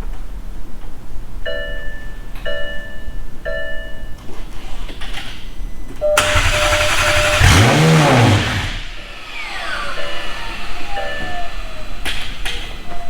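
McLaren 720S twin-turbo V8, freshly swapped in, being started for the first time: the starter cranks about six seconds in and the engine catches with a rev flare that rises and falls. Short electronic chimes sound three times before the start and twice after it, and a falling whine follows the flare.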